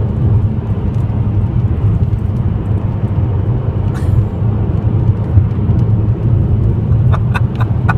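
Steady road and engine rumble heard inside a moving car's cabin, with scattered faint ticks of insects hitting the windshield, which sound like rain on the window. A few sharper ticks come near the end.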